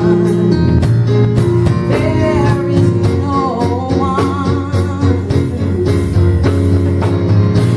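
Gospel band music between sung lines: a guitar lead with wavering, bending notes over a sustained bass and a steady drum beat.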